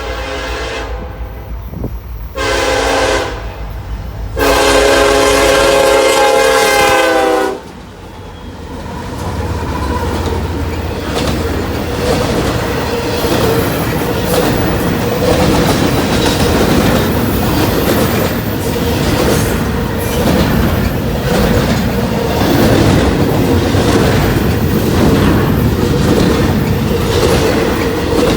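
Locomotive air horn sounding: a brief note at the start, a short blast, then a long, loud blast. Then the train rolls past with a steady rumble and rhythmic clickety-clack of wheels over rail joints.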